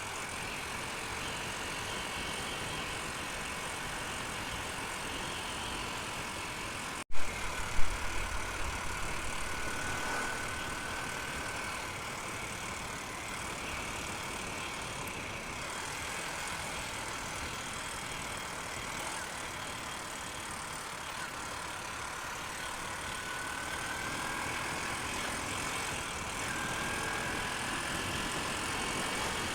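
Honda Unicorn single-cylinder motorcycle cruising on the highway, engine running under a steady rush of wind noise with a faint whine that slowly shifts in pitch. About seven seconds in the sound drops out for an instant, then two loud thumps come.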